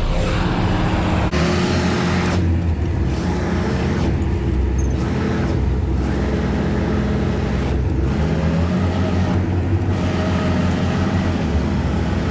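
Semi truck's diesel engine running at low speed while the truck is maneuvered into a parking space: a steady low drone, with a hiss that comes and goes every second or two.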